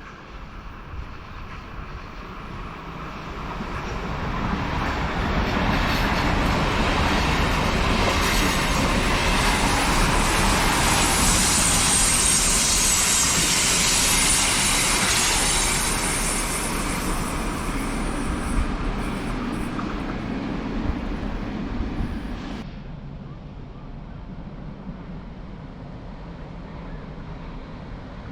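A train passing at speed: it grows louder, runs loudest for about ten seconds with a high wheel squeal over the rumble and clatter of the wheels on the track, then fades. The hiss drops away suddenly near the end.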